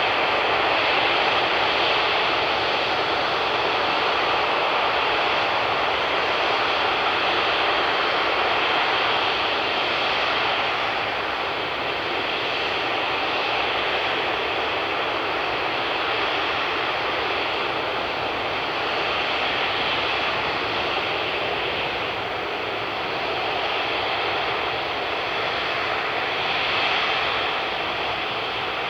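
Emirates Airbus A380's four jet engines running: a steady, loud rushing noise that eases slightly partway through.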